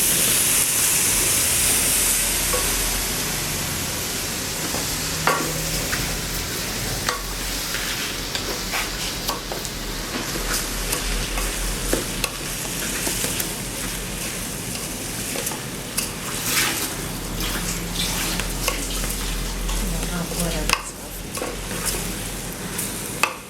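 Rice and chicken frying in a pan with a steady sizzle, stirred with a spoon that scrapes and knocks against the pan. The hiss is loudest in the first two or three seconds, then eases.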